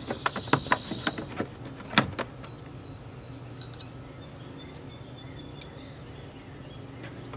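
A quick series of sharp clicks and knocks from hand work on the car door, the loudest about two seconds in, then a steady low hum with a few faint high chirps.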